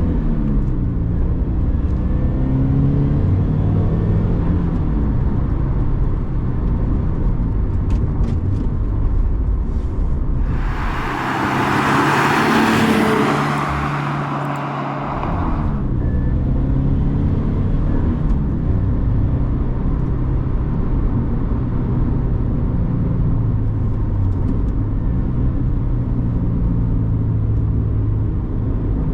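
Turbocharged Subaru FA20 flat-four engine of a 2013 Scion FR-S pulling and shifting through the gears while driving, its pitch rising and falling again and again. About a third of the way through the engine note drops back and a loud hiss covers it for about five seconds.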